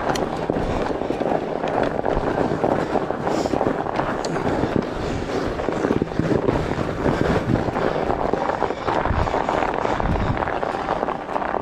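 Fatbike being ridden over a rough trail: a dense, continuous crackle of the fat tyres on the surface, with the bike rattling.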